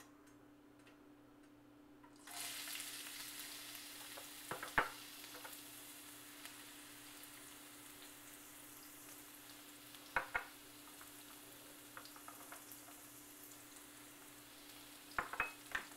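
Chopped red onion and garlic hitting hot olive oil in a nonstick frying pan about two seconds in, then sizzling steadily as they begin to sauté, the hiss easing a little over time. A few sharp clicks sound now and then over the sizzle.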